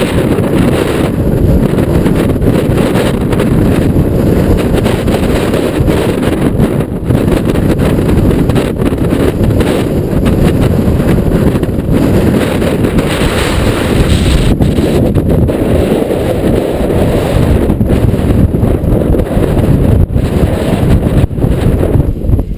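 Strong wind buffeting the camera's microphone, a loud, steady low rumble with no let-up, from gusts of over 30 mph.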